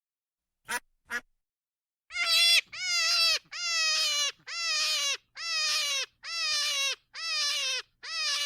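Duck quacking: two short quacks, then after a pause a run of eight longer quacks, one about every three-quarters of a second, each dropping slightly in pitch.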